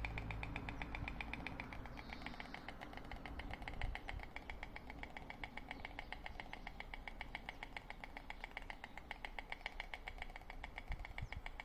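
Storks clattering their bills: a long, rapid, even run of dry clicks. This is the storks' display in a fight over a nest.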